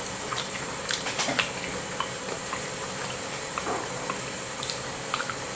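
A person chewing a piece of cooked red fly agaric mushroom: small irregular clicks and crunches over a steady hiss.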